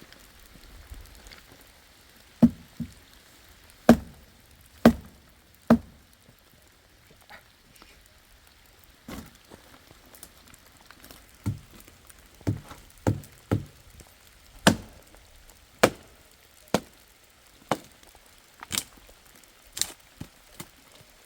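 Repeated sharp chopping strikes at an uneven pace, roughly one a second, some much louder than others.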